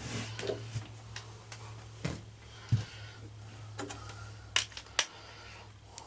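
Scattered light clicks and taps from hand tools and small hardware being handled, at irregular intervals, over a faint steady low hum.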